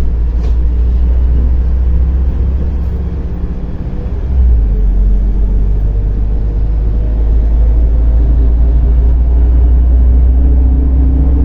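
Inside the cabin of a MAZ-105 articulated city bus under way: steady engine and road rumble. The level dips briefly about four seconds in and comes back up sharply, then the engine note climbs as the bus pulls away and accelerates.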